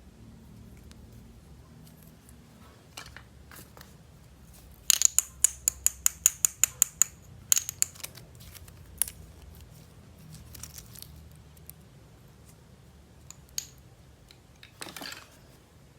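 Hands working with toys and packaging during an unboxing: a quick run of about a dozen sharp, crisp clicks or snips, about five a second, then a few scattered clicks and a short scraping rustle near the end.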